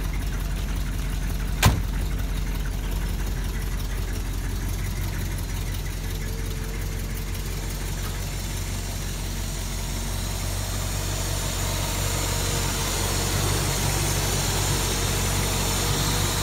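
1958 Cadillac's 365 cubic-inch V8 idling steadily. About two seconds in, the driver's door shuts with a single sharp slam. In the second half the idle grows a little louder and hissier, heard close under the open hood.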